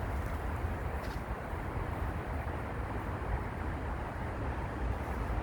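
Wind buffeting the microphone: a steady rushing noise with a heavy, fluctuating low rumble.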